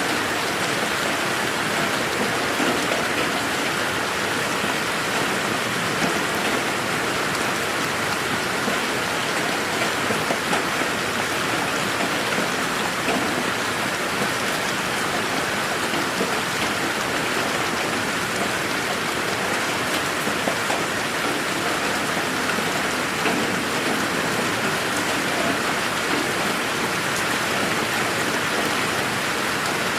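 Steady rain falling in a garden: an even hiss with scattered individual drops ticking, holding at the same strength throughout.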